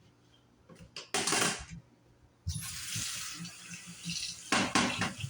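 Water pouring or running in a steady stream for about the last three seconds, after a brief clatter about a second in, with a few clinks of dishes and utensils near the end.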